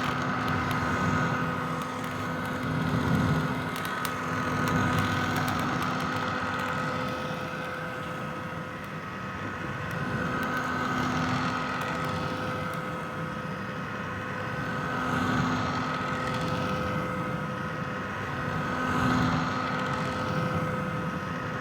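Vintage hair dryer running steadily: the whine of its fan motor over rushing air, slowly rising and falling in level.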